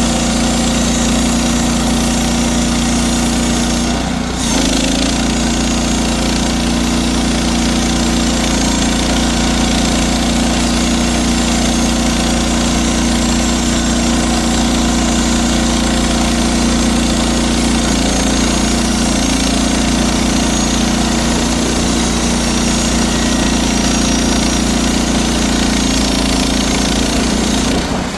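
Portable sawmill's small engine running steadily under load as the blade saws through a log, with a brief dip about four seconds in.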